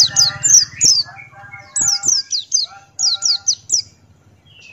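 Pleci Buxtoni white-eye singing: three rapid bursts of sharp, high, downward-sweeping chirps, with a lower trilling twitter beneath the first two, fading out near the end.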